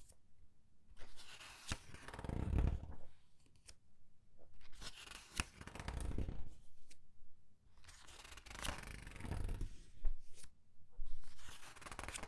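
Comic book pages being turned slowly one at a time and squeezed, each turn a rustle and crinkle of thin paper with small crisp snaps, about four turns a few seconds apart.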